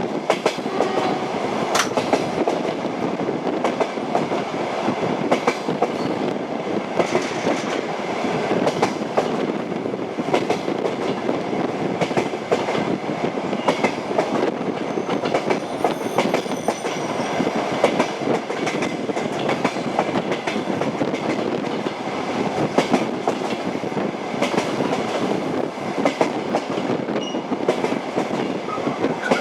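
Passenger train wheels clicking over the rail joints of jointed track in a steady clickety-clack, with continuous running noise of the train in motion beneath it.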